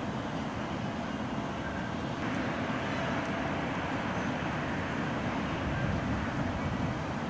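Steady low rumble of city background noise, swelling slightly about two seconds in.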